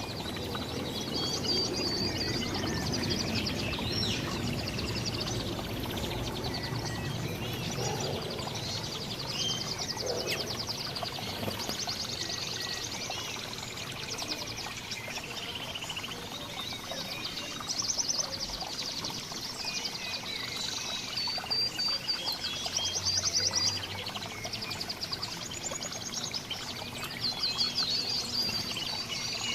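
Several small songbirds chirping and singing at once, with rapid high trills recurring every few seconds, over a steady low rushing noise.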